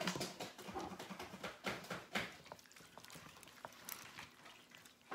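Light clicks and scraping of kitchen utensils against food containers as food is spooned out into portions, busier in the first couple of seconds and then sparse.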